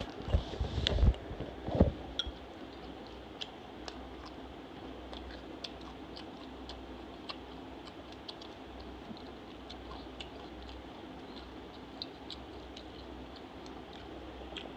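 A person chewing soft fried dhuska bread and potato curry close to the microphone: scattered faint wet mouth clicks, with a few louder smacks in the first two seconds, over a low steady hum.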